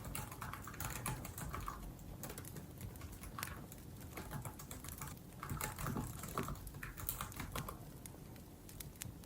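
Typing on a laptop keyboard: quick runs of light key clicks with short pauses between them.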